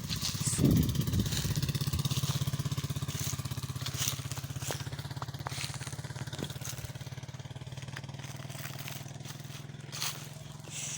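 A motor vehicle engine running with a steady low pulsing, slowly fading as it moves away.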